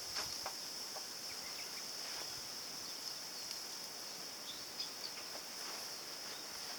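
Steady high-pitched drone of insects, with a few faint short ticks.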